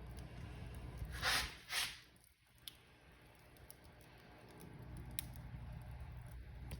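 Wood fire burning in a fireplace: a steady low rumble with sparse sharp crackles and pops. Two louder hissing bursts come about a second in, after which the rumble drops away briefly and slowly builds back.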